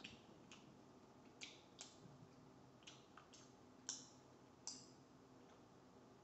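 Quiet chewing of a waffle, heard as about eight short, sharp crunches at uneven intervals.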